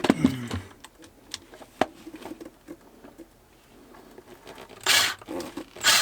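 Scattered clicks and rustling from hands and tools at work in a cramped space, with a short falling voice-like sound at the start and two louder rustles near the end.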